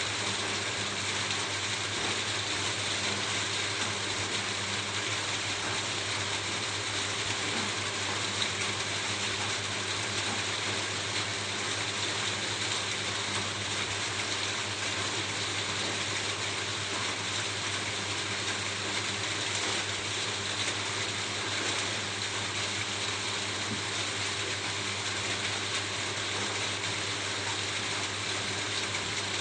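Steady, unbroken rain falling on a roof, a dense hiss of drops with no let-up, over a faint steady low hum.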